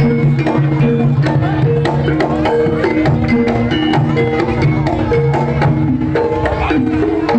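Javanese jaranan gamelan music: metallophones play a repeating stepped melody over quick, dense hand-drum strokes.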